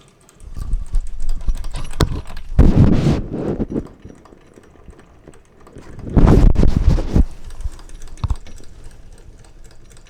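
Wilesco D419 live-steam showman's engine running, its gears clattering with rapid ticks; the owner believes the middle drive gear is not quite true and has a tight spot against the small flywheel gear, which makes it noisy. Two louder noisy bursts come about three and six seconds in.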